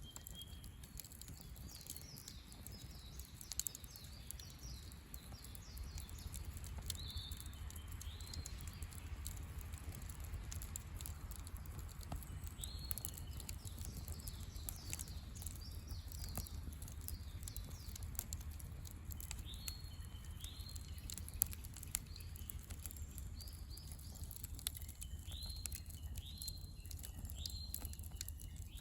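Wood campfire crackling, with scattered sharp pops and ticks. Birds call in short repeated notes in the background, in small groups several times.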